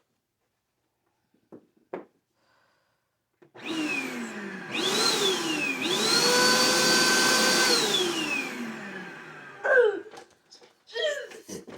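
Vacuum cleaner motor switched on about three and a half seconds in. Its whine dips and climbs again, holds steady for a second or two, then falls away as it winds down. A couple of short motor bursts with quick pitch sweeps come near the end.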